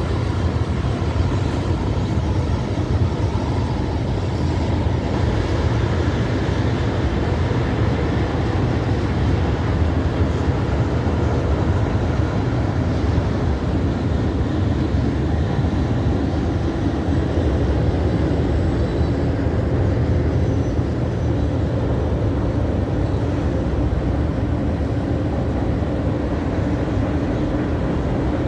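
BNSF freight train's tank cars and covered hoppers rolling across a concrete overpass bridge: a steady, even rumble of wheels on rail, with no breaks.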